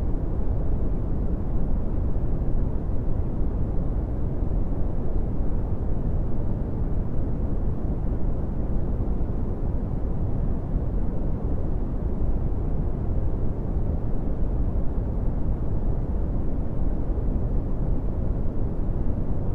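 Steady brown noise: an even, deep rumbling hiss with most of its energy in the bass, fading out toward the treble, unchanging throughout.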